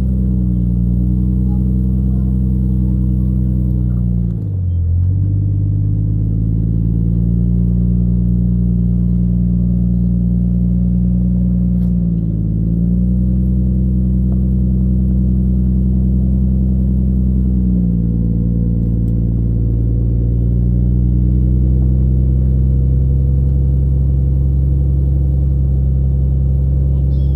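Jeep Cherokee XJ engine running steadily under load while crawling off-road. The revs dip briefly about four seconds in and again around twelve seconds, then settle a little lower after about eighteen seconds.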